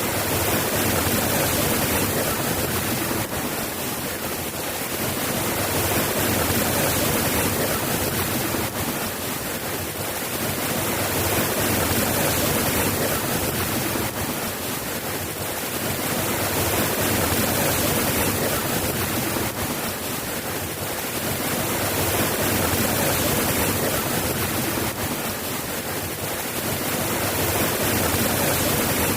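Steady rain falling, an even hiss that swells and eases slowly about every five or six seconds.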